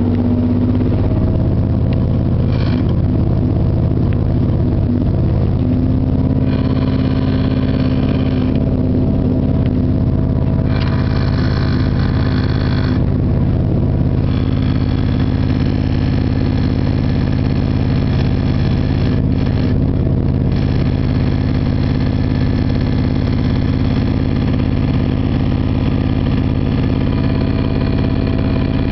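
Running noise of a passenger train heard from inside the carriage at speed: a steady low hum with wheel and rail noise, and a brighter hiss that swells and fades several times.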